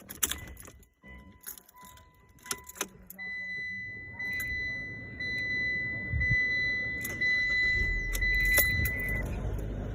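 Keys jangling and clicking, then the car's warning chimes sounding in a series of steady high tones. Under the chimes the 2018 Mitsubishi Eclipse Cross's engine starts right up and runs with a low, steady rumble that grows stronger in the second half.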